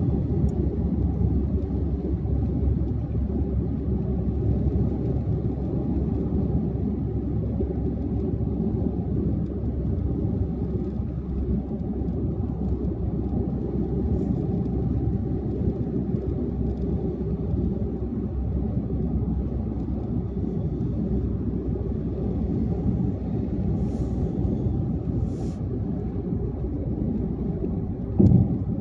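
Car driving at highway speed: steady low road and tyre rumble with engine drone. A brief louder bump comes near the end.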